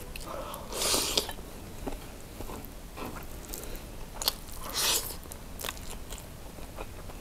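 A person chewing and biting cheese sausage and rice close to the microphone, with two louder noisy bursts, about a second in and just before five seconds in, and scattered small clicks.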